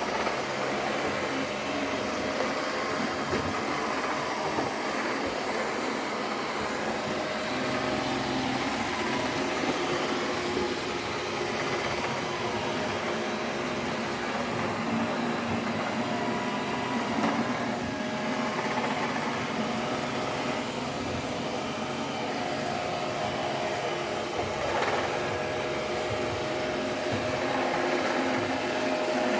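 Roborock robot vacuum running steadily, its suction motor and brushes giving a constant whirring with a steady whine as it cleans.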